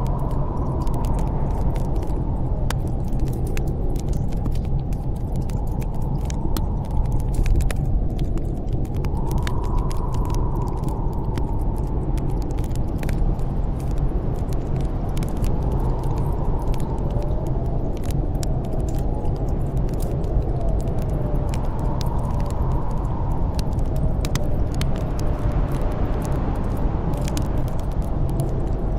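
Storm wind blowing steadily with a low rumble and a whistling tone that swells and fades every few seconds, mixed with the frequent small pops and crackles of a wood fire.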